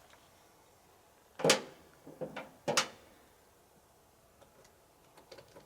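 Shotgun shells and their box being handled: three sharp clacks about a second and a half in, then a few light ticks near the end.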